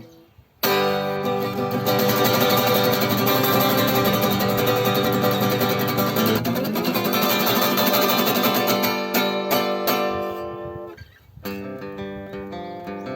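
Acoustic guitar playing. After a brief pause it strums ringing chords for about ten seconds, stops briefly near the end, then goes on more quietly.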